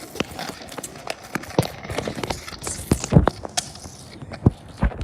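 Irregular knocks and clatter, with heavier thumps about three seconds in and twice near the end.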